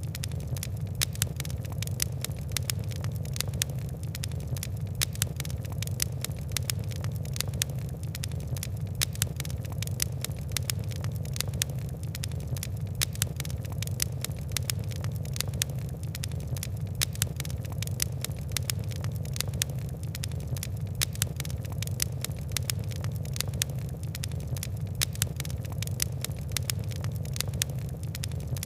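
Wood and coal fire crackling: frequent sharp ticks and pops over a steady low rumble of burning.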